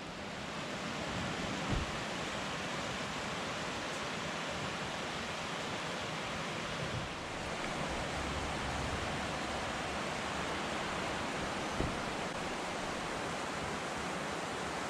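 Steady rain, an even unbroken hiss, with two soft thumps about two seconds in and near the end.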